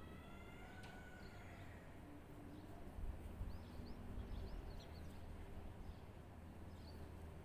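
Birds calling: one drawn-out, slightly falling call near the start, then a scatter of short high chirps a few seconds in. Under them runs a low, steady outdoor rumble.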